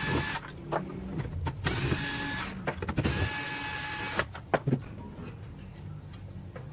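Small electric motor whirring in three short bursts of about a second each, followed by two sharp clicks.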